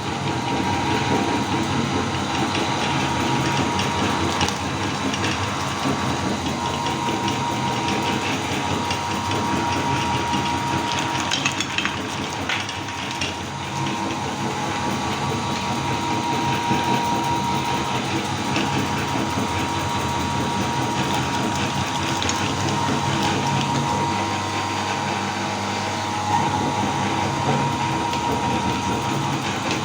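Meat grinder running steadily as it grinds colourful cookies and candy, with a constant mechanical whir and a few brief crackles about a third of the way in.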